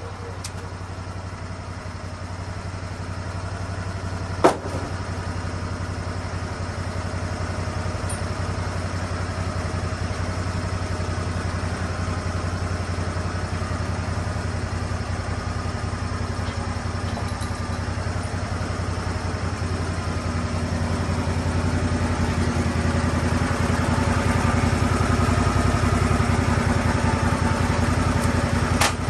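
Lucas Mill swing-blade sawmill's engine running steadily, growing louder in the second half. A sharp click about four and a half seconds in.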